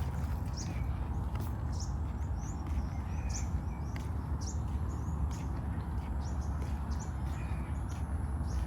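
Small birds chirping in short, high calls, a few every second, over a steady low rumble.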